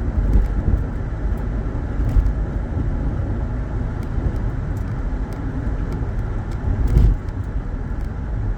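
A car driving on a rough road, heard from inside the cabin: a steady low rumble of tyres and engine, with a heavier bump about seven seconds in.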